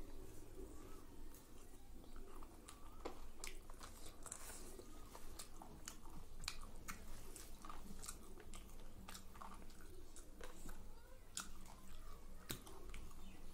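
Close chewing and eating sounds of a person eating chicken curry and rice by hand, with many short irregular clicks and smacks.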